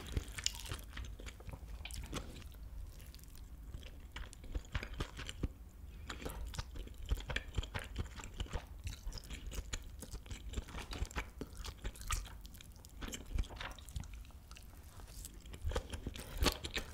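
A person chewing a mouthful of kimchi fried rice with melted cheese close to the microphone, making many small irregular clicking mouth sounds.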